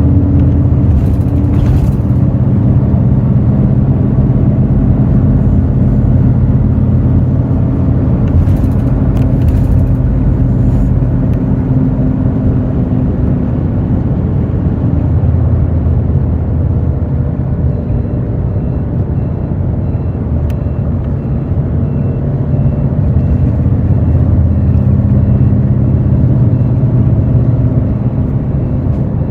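Hino J08E-VD diesel engine of a Hino RN8JSVU-SSF coach running steadily under way, heard from inside the bus, its note sinking a little partway through and rising again. Two short hisses break in early on and near the middle, and a faint high beep repeats evenly through the last third.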